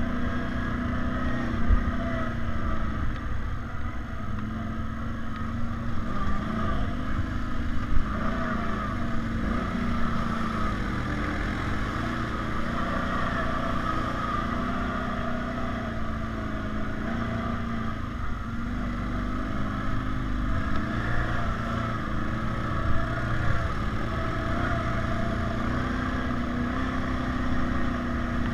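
ATV engine running as the quad is ridden off-road, its pitch rising and falling with the throttle.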